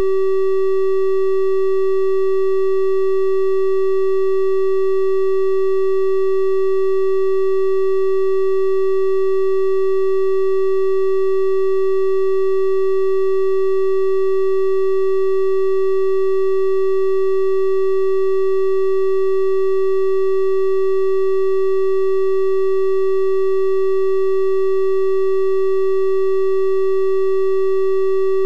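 Steady electronic triangle-wave test tone at 384 Hz, held at one pitch and level, with faint higher overtones giving it a slightly brighter sound than a pure sine.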